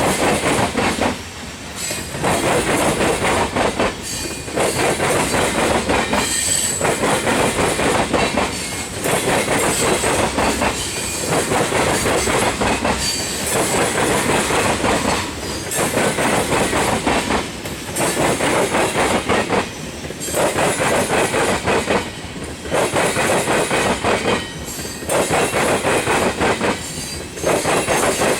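Freight cars of a manifest train rolling past close by, wheels clattering over the rail. The sound swells and dips about every two seconds as each car goes by, with a brief faint high wheel squeal about six seconds in.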